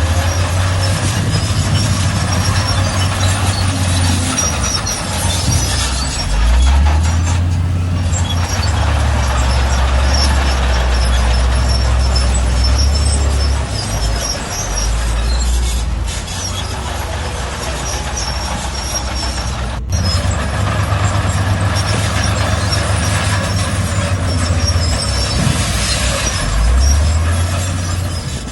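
Heavy diesel engine of a Shantui bulldozer working under load, its note dropping and rising several times as the throttle changes, with high metallic squealing from the running gear. There is a single sharp click about two-thirds of the way through.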